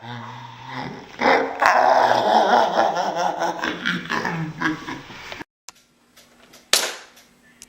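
Loud, rough growling voice that cuts off suddenly about five seconds in, followed by one short loud burst near the end.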